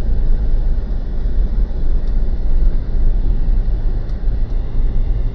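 Mitsubishi Pajero's diesel engine idling in first gear while the automatic holds the car back crawling down a slope, heard inside the cabin as a steady low rumble. A few faint ticks sound about two and four seconds in.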